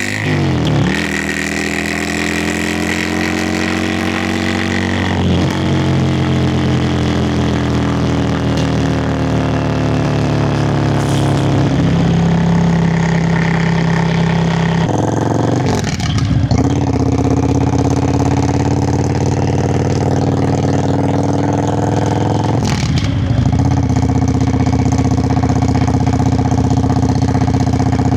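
Yamaha Virago XV535's air-cooled V-twin exhaust note under way, with wind rushing past. The engine note slowly falls, then breaks and changes pitch about four times as gears are changed, holding steadier near the end.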